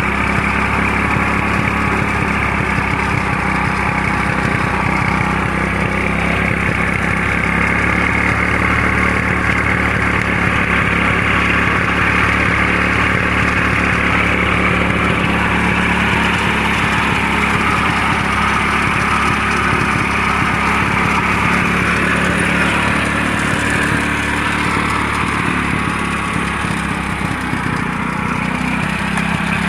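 Motorcycle engine running steadily while it drives a water pump, with a slight easing for a moment about two-thirds of the way through.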